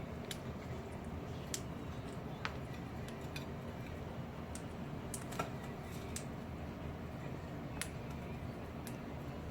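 Parrots feeding from a shared plate: scattered sharp clicks and taps of beaks on food and plate, roughly one a second and irregular, over a steady low hum.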